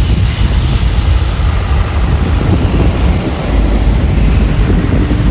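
Jet airliner engines heard from the ground, a loud steady rumble with a hiss on top and a heavy, uneven low end.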